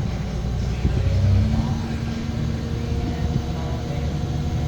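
Cat 725C articulated haul truck's diesel engine running steadily under load.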